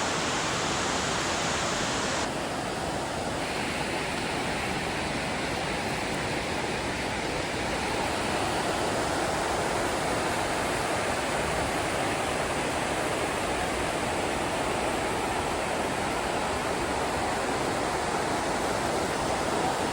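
Steady roar of a large waterfall's falling water, a constant rushing hiss. About two seconds in, its higher hiss thins abruptly.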